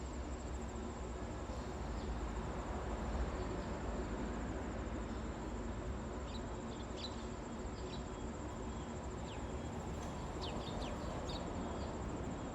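An insect's steady, high-pitched trill, with a few short bird chirps from about halfway through, over a low outdoor rumble.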